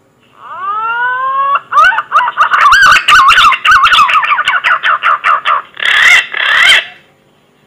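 Green pigeon (punai) song played as a hunting lure: a few drawn-out rising whistles, then a fast run of warbling, wavering whistles with clicks, ending in two louder, harsher rising notes.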